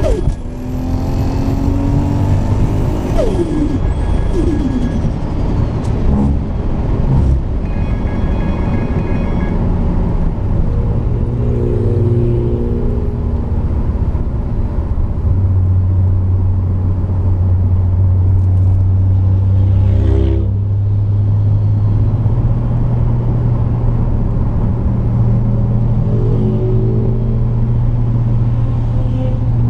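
Car engine running at fairly steady revs with a low rumble, the engine note stepping up a little about halfway through and again a few seconds later.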